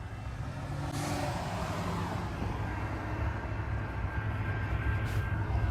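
Train rolling past with a steady low rumble that slowly grows louder, a faint thin squeal joining in the second half.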